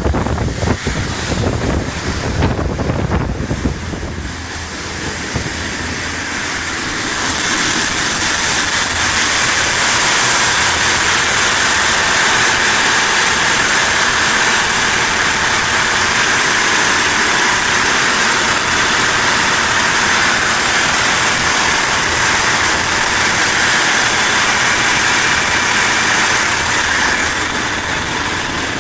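Two 630 hp Iveco Aifo marine diesel engines running steadily at high cruising speed, with a constant high whine from their turbochargers over the engine noise. For the first few seconds wind buffets the microphone before the engine sound takes over.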